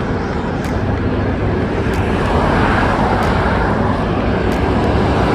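Road traffic running steadily, with a vehicle approaching and growing louder from about two seconds in.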